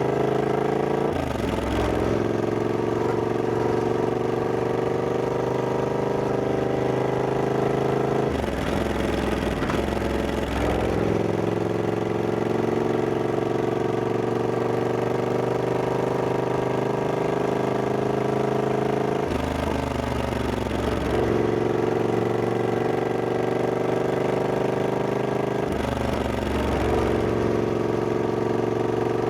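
Triumph Scrambler 1200X's 1200 cc parallel-twin engine pulling steadily under way. Its note breaks up and shifts in pitch four times, about 1, 9, 20 and 26 seconds in, before settling into a steady pull again.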